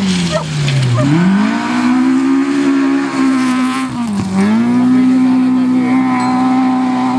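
Rally car engine revving hard: the revs fall about a second in, then climb and hold high, with a brief dip about four seconds in before holding high again.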